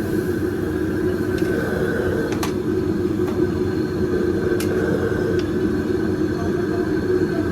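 Steady din of a busy street market: a low, even rumble with a faint steady whine and a few sharp clicks.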